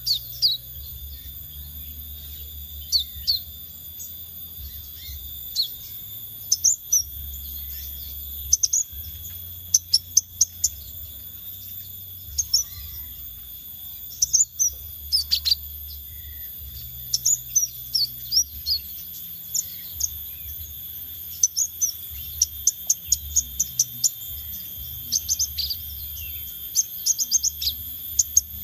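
Songbird sold in Indonesian bird-keeping as sepah raja ekor merah calling in quick runs of short, sharp, high chirps, the kind of recording played to prompt a caged bird to sing. A steady high-pitched whine runs beneath the calls.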